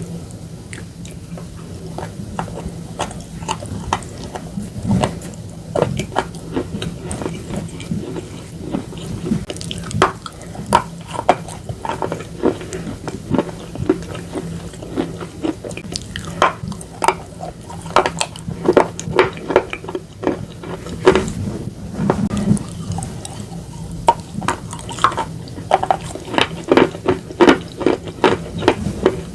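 Close-miked crunching and chewing of slate pencil pieces and slate bar mixed with a wet paste: a steady run of sharp crackles and snaps, coming in denser clusters several times.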